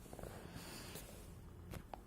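Faint soft squeezing and rustling of a foam squishy toy close to the microphone, with one small click near the end.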